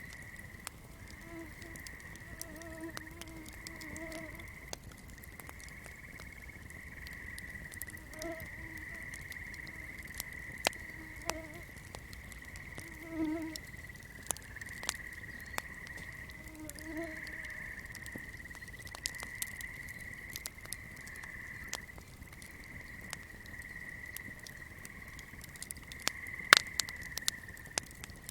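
Swamp night chorus: a steady high insect trill, with frogs giving short low croaks every few seconds through the first half. Scattered sharp crackles of a fire run through it, the loudest near the end.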